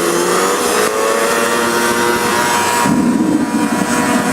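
Leaf blower feeding air to a waste-oil forge, its motor whine rising in pitch over the first second or so as the air is turned up, over a steady rush of air through the burner. About three seconds in, a rough low rumble as fire flares out of the forge.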